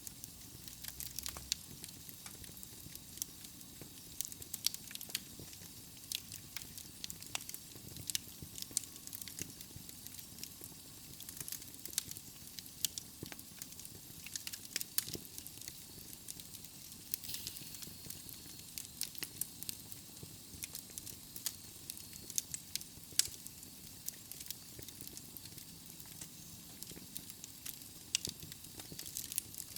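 Wood fire burning in a fireplace: logs crackling with frequent sharp pops over a steady hiss.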